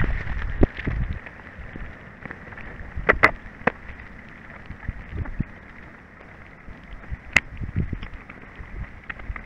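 Rain falling, with scattered drops tapping close by and a few sharper single ticks.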